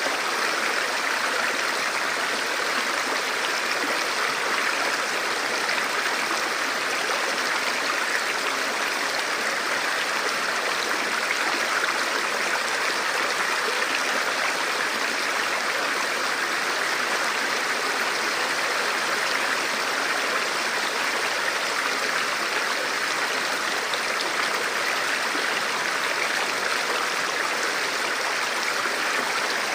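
Forest river or stream flowing steadily over rocks: a continuous, even rush of water.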